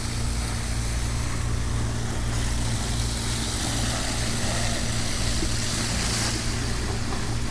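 High-pressure washer running steadily: a constant motor-pump hum under the hiss of the water jet, the hiss shifting in strength about two seconds in and again near six seconds as the spray is moved.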